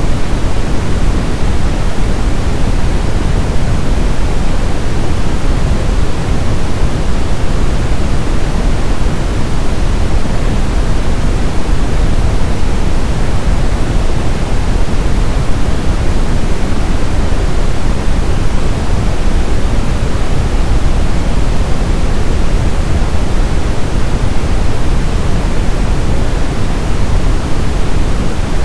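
Synthetic brown noise: a steady, deep hiss with most of its weight in the low end, unchanging throughout.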